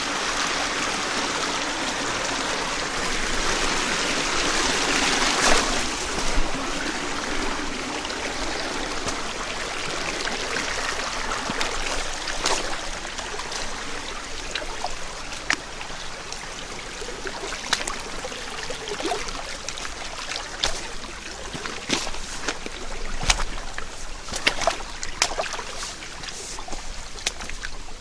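Mountain headwater stream running over rocks: a steady rush of water for the first few seconds, then a thinner trickling flow with many separate splashes and drips.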